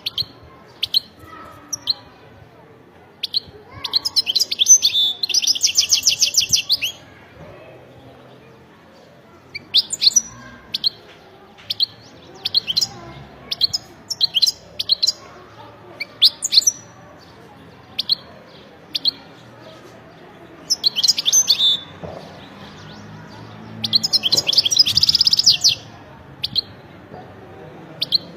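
European goldfinch singing: scattered short high call notes with bursts of fast, rattling twitter, the longest phrases about four seconds in and again a few seconds before the end.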